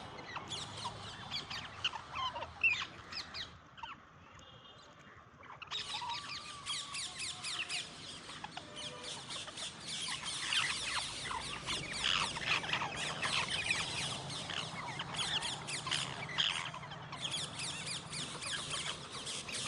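A flock of parrots calling and chattering, with many short chirps overlapping. The calls thin out briefly about four seconds in, then return as dense chatter.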